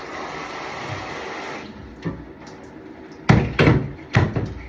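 Tap water running into a bathtub, shutting off after about a second and a half, followed by a few loud knocks near the end.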